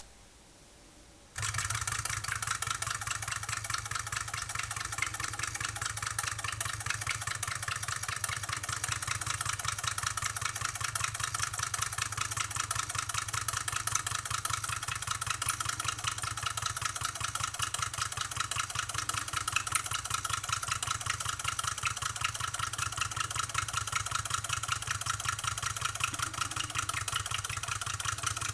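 1895 Rider-Ericsson hot air pumping engine running steadily, a continuous mechanical clatter of fast, dense ticks that cuts in abruptly about a second and a half in.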